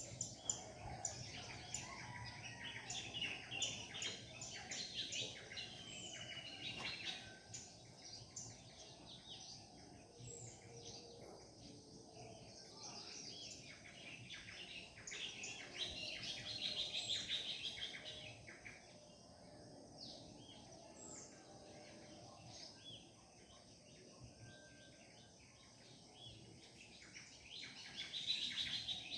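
A dawn chorus of many birds singing and chirping together: overlapping short chirps, trills and upward-sweeping whistles, busiest near the start and again about halfway through, over a faint low background noise.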